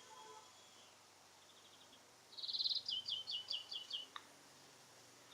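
A small songbird sings one short phrase about two seconds in: a quick buzzy trill followed by a run of about seven sharp, falling notes, with a fainter trill just before it, over a low steady hiss.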